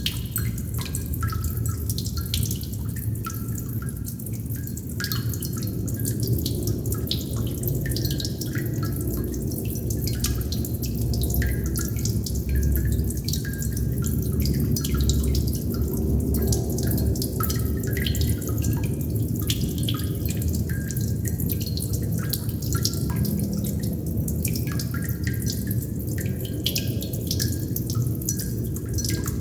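Water droplets dripping, many short irregular plinks in quick succession over a steady low rumble of water.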